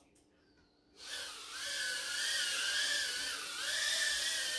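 Mobula 6 tiny whoop's 19000kv brushless motors, silent for about a second, then spinning back up into a high whine that wavers up and down in pitch as the throttle changes. The quad is being relaunched after a crash.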